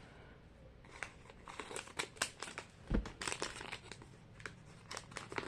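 Small plastic wrapper of a Mini Brands miniature crinkling and tearing as it is opened by hand: a string of irregular sharp crackles, with one soft thump about three seconds in.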